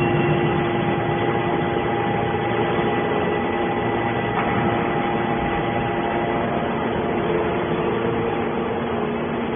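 Hydraulic scrap metal baler press running, a loud steady machine hum with a few held tones over it.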